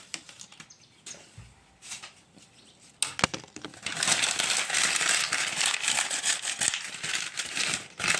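A single sharp click, then from about four seconds in a loud, continuous crinkling and rustling of plastic being handled.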